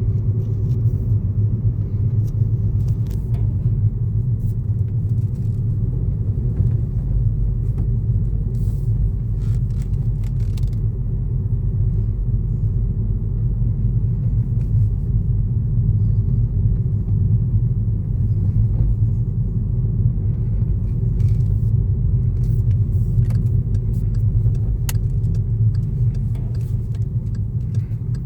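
2012 Volkswagen GTI's 2.0-litre turbocharged four-cylinder engine running steadily as a deep, even rumble with no revving, with a few faint clicks on top.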